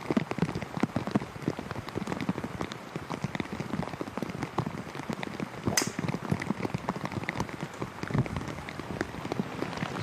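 Heavy rain pattering on a surface close to the microphone, a dense, irregular spatter of drops. About six seconds in there is one sharper, louder crack.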